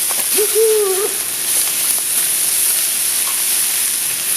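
Pork belly and freshly added kimchi sizzling steadily on a cast-iron cauldron lid (sotttukkeong) over a wood fire. A short voiced sound comes about half a second in.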